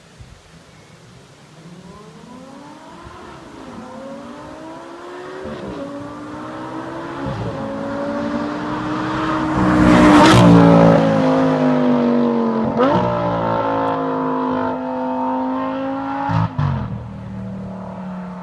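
Audi R8 GT's V10 through a DSsport aftermarket exhaust, accelerating hard up through the gears. The engine note climbs and drops sharply at each of several upshifts. It grows louder to a peak about ten seconds in, then eases off as the car pulls away.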